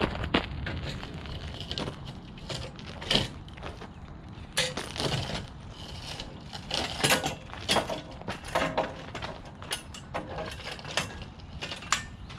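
Irregular mechanical clicks and clanks as a mower lift jack is worked to lower the raised mower.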